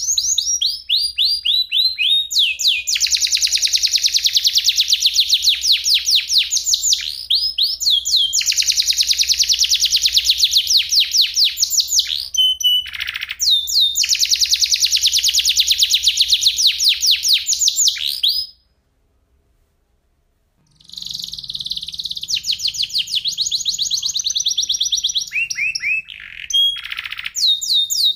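Domestic canary singing long rolling trills of fast-repeated high notes, phrase after phrase. The song breaks off for about two seconds roughly two-thirds of the way through, then starts again.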